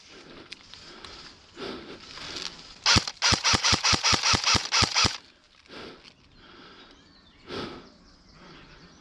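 SPARTAC AK47M Tactical airsoft electric rifle firing a quick string of about a dozen shots, around five a second, lasting about two seconds.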